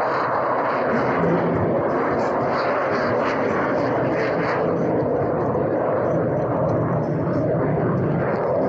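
Steady, loud engine noise from an aircraft in flight, holding even throughout.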